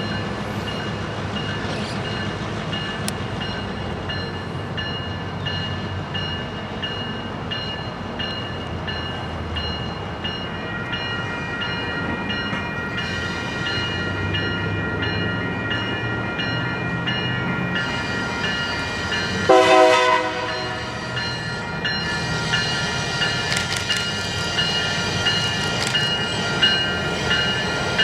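Freight train rolling by with steady high-pitched squealing tones and rumble. A short loud horn blast comes about twenty seconds in, and sharp clicks follow near the end.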